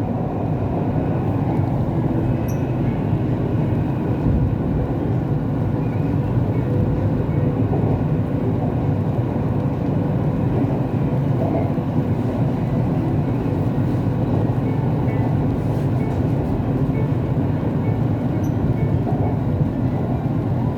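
Siemens Inspiro metro train running between stations, heard inside the passenger car: a steady low rumble of wheels and running gear on the track, with a faint steady hum.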